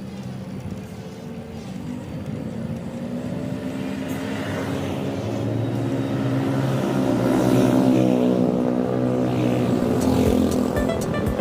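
A motor vehicle's engine grows louder as it approaches, passes close about eight seconds in, its pitch bending downward as it goes by, then begins to fade.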